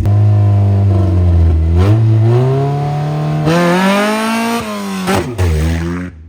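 Honda CRX race car's four-cylinder engine revving up under acceleration. The pitch climbs steadily for about three seconds, then falls away and settles lower.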